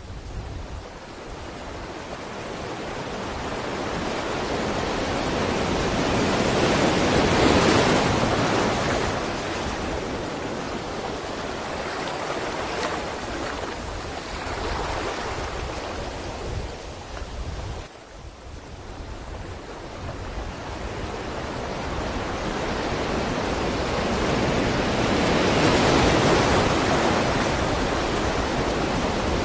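Sea waves washing in: two slow swells of surf noise, the first peaking about a quarter of the way through, then a sudden lull before the next wave builds to its peak near the end.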